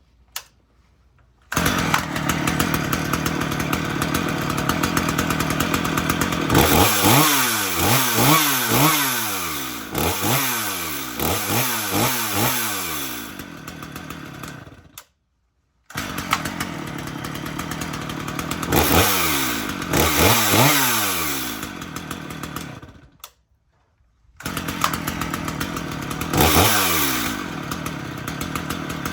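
Gasoline two-stroke chainsaw running at idle and revved repeatedly, its pitch climbing and falling with each blip of the throttle. It starts about a second and a half in, and the sound breaks off abruptly twice.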